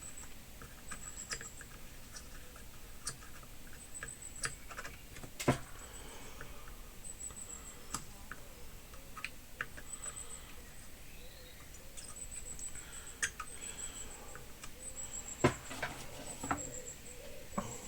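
Hand soldering on a circuit board: scattered small clicks and taps, with faint crackling as flux heats on the joints. Short high-pitched squeaks recur throughout, and two sharper knocks come about five and fifteen seconds in.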